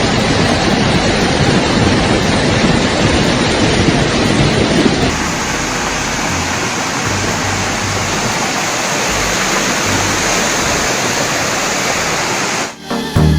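Floodwater rushing, a loud steady wash of noise. About five seconds in it turns into a slightly quieter wash with intermittent low rumbles. Electronic music starts near the end.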